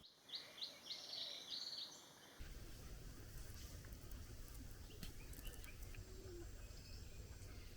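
Wild birds calling at a forest waterhole: a quick run of short chirps over a steady high whine for about two seconds. Then, after an abrupt change, a low steady background rumble with a few faint bird notes.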